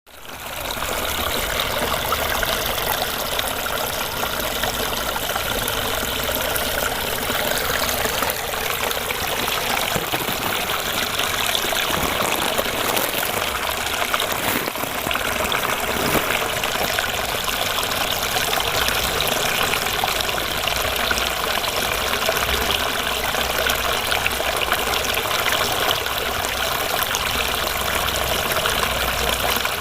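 Small fish-pond waterfall running steadily, water splashing and gurgling into the pond. It fades in during the first second.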